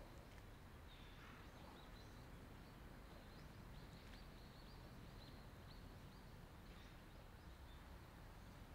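Near silence: faint woodland ambience with scattered, distant bird chirps.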